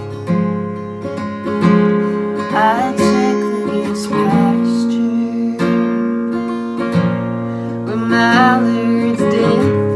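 Acoustic guitar strumming chords in an instrumental passage of a song, with a short wavering melody line over it twice.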